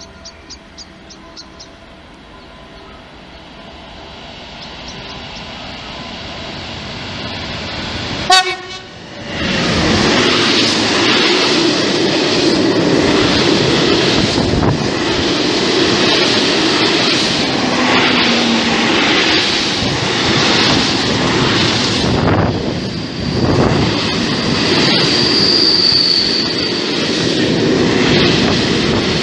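A freight train approaches, gives one very short horn blast about eight seconds in, then runs past close by with a loud rumble and clatter of wagons on the rails. A brief high squeal rises over the passing wagons near the end.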